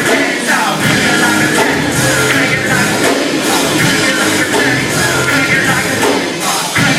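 A rock band playing live, loud and dense, with a sung vocal line over the band.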